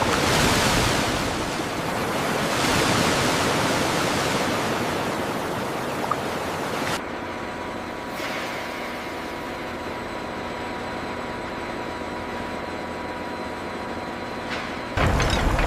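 A steady rushing noise, swelling twice in the first few seconds, then dropping to a softer hiss with a faint steady hum about seven seconds in.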